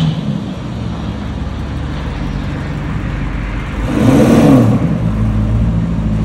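Porsche Cayenne GTS's twin-turbo V8 engine running, with a brief louder swell about four seconds in as its pitch rises and falls again.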